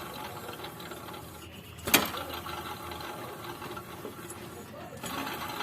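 Steady mechanical rattling and whirring from a car's engine bay while a noisy alternator bearing is being checked, with one sharp click about two seconds in.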